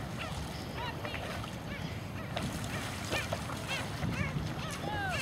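Waterbirds calling: many short, nasal calls that rise and fall in pitch, about two a second, with a longer, lower falling call near the end, over a low steady rumble.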